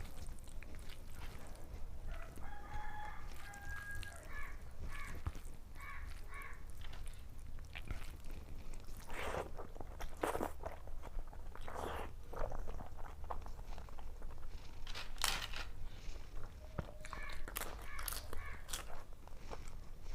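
Close-up chewing and crunching of food such as papad and fried fish, with sharp crunches mostly in the middle of the stretch. A chicken calls in the background, near the start and again near the end.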